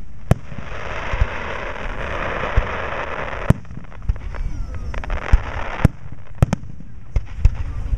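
Aerial fireworks shells bursting: many sharp bangs at irregular intervals. A dense rush of noise runs for about three seconds from half a second in, and returns briefly near the end.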